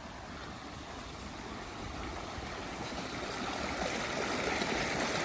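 Storm-swollen creek rushing, full after heavy rainfall, its sound growing steadily louder.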